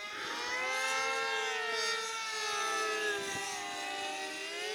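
Several radio-controlled model airplanes flying at once, their motors and propellers whining as several overlapping tones that rise and fall in pitch as the planes speed up, slow and pass by.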